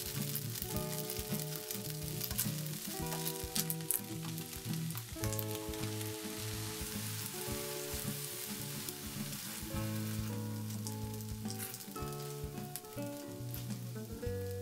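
Instant noodles, scrambled egg and shrimp sizzling in a hot frying pan as they are tossed with tongs, with scattered light clicks. Soft background music with held notes plays along.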